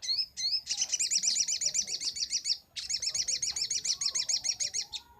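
Little spiderhunter (sogok ontong) singing: two short sliding call notes, then two long rapid trills of sharp repeated high notes, about ten a second, with a brief break between them. This is the fast burst ('nembak') song kept for tutoring other birds.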